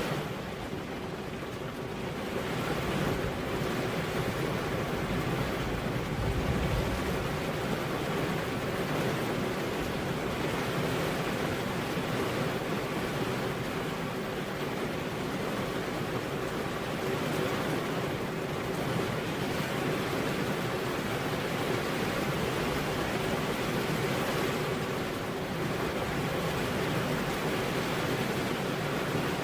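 Steady rain, an even, unbroken rushing hiss.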